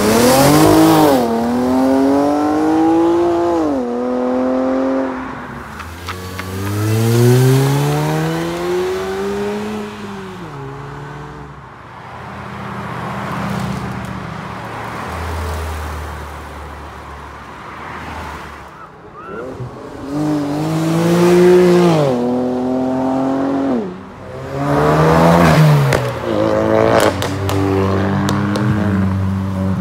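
Sports cars, among them a Nissan 370Z roadster, a Porsche 911 GT3 and a Ford Focus RS, accelerating hard one after another, each engine note rising through the revs and dropping at each upshift. A few sharp cracks come near the end.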